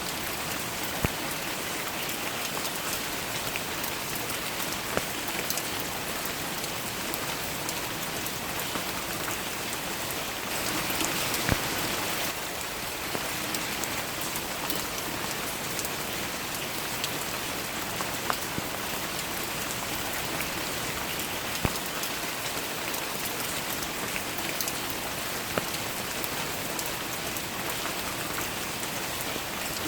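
Steady rain falling, with occasional single drops landing close by as sharp taps. The rain grows slightly heavier for about two seconds around ten seconds in.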